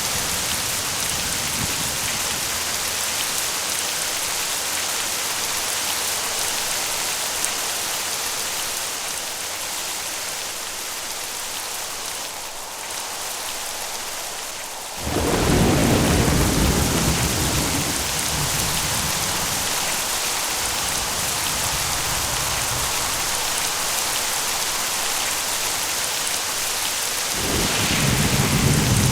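Steady rain hissing throughout, with a clap of thunder about halfway through that rumbles on and fades over several seconds, and another roll of thunder starting near the end.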